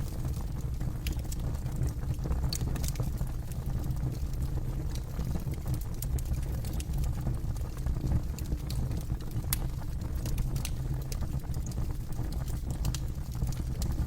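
Campfire burning, with a steady low rumble and scattered sharp crackles and pops.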